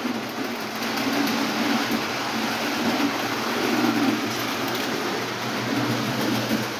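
Lionel O27 tinplate model trains running on the track: a steady whir and rattle of the electric motors and wheels, with a low hum under it.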